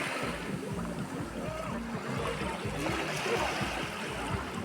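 Sea water washing and lapping, swelling once about three seconds in.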